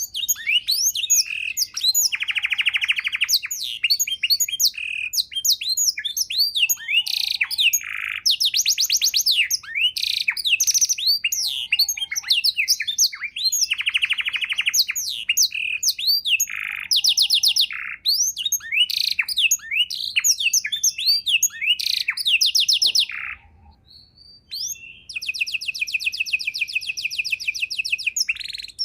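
Domestic canary singing a long, varied song: quick falling whistled notes run together with several fast rolling trills, and there is a brief pause near the end.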